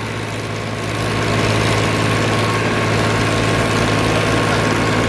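Farmtrac tractor's diesel engine running with a steady low hum, growing louder about a second in.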